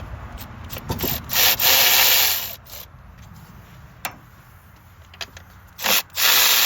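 Cordless 3/8-inch ratchet (Milwaukee M12 Fuel) spinning out 10 mm coil-pack bolts, in two loud bursts of about a second each, with lighter scraping and handling between them.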